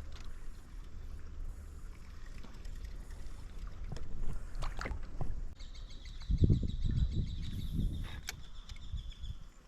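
Low thumps and a few sharp knocks of handling in a small boat, over a steady low rumble. From about halfway, a bird calls in a fast run of repeated high notes.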